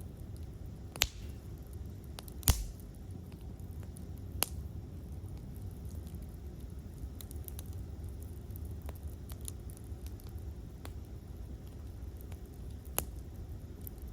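Campfire crackling: a steady low hiss of the flames with scattered sharp pops, the loudest about two and a half seconds in and others about one second, four seconds and thirteen seconds in.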